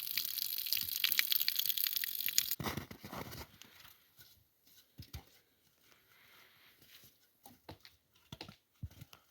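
Dry twigs and kindling being handled and broken: a dense crackling, tearing noise that stops abruptly about two and a half seconds in, followed by scattered snaps and crunches.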